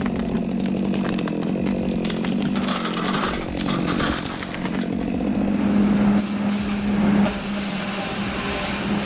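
Chainsaw running at high throttle, cutting, its engine pitch dipping and recovering a few times. It is loudest about six to seven seconds in, then drops back.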